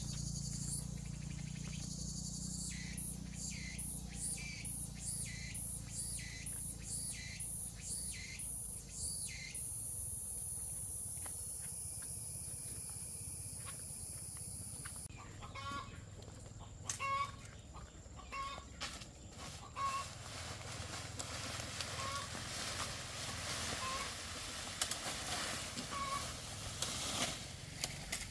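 Chickens clucking in short calls, with scattered clicks and rustling. They come in about halfway through, after a stretch of rhythmic chirping about twice a second and then a steady high insect buzz.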